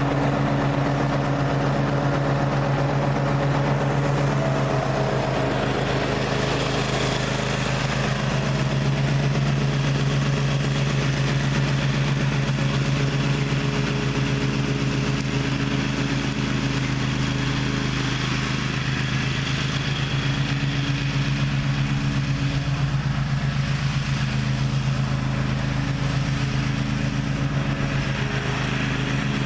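Gravely ZTX 42 zero-turn mower engine running steadily, with a hiss that grows louder a few seconds in.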